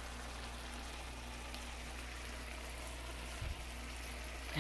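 Fried cabbage and andouille sausage sizzling softly and steadily in a skillet over the flame, with a low hum underneath and one brief low bump about three and a half seconds in.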